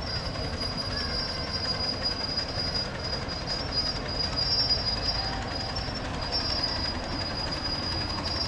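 Miniature ride-on railway train running along the track: a steady rumble of wheels on rail, with a thin high wheel squeal that comes and goes.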